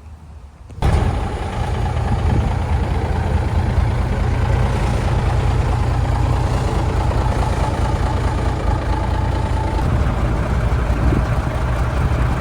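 Heavy truck engine running steadily close by, starting abruptly about a second in, with a thin steady whine over it that stops near the end.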